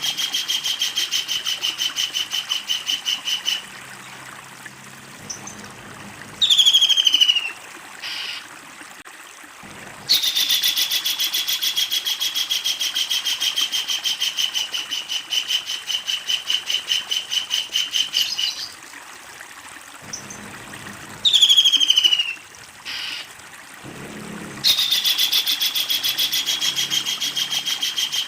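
A kingfisher calling: long, fast, rattling trills, each lasting several seconds, broken twice by a loud, short call that falls in pitch.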